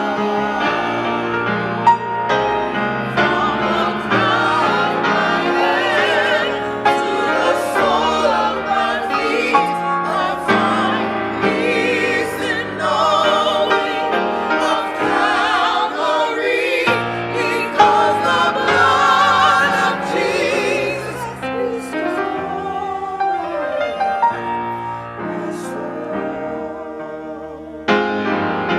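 Choir singing with piano accompaniment, voices wavering with vibrato on held notes.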